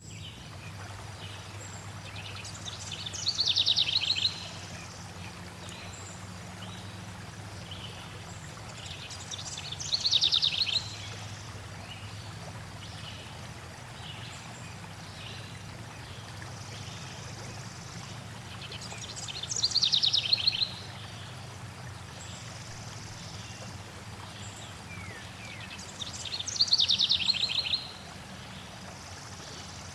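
A songbird sings a fast trill of rapid notes that run downward in pitch, four times about six to nine seconds apart. Under it runs the steady rush of flowing stream water.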